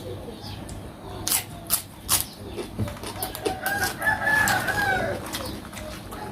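A rooster crowing once, a drawn-out call of about a second and a half starting midway through. A few sharp cracks or clicks come before it.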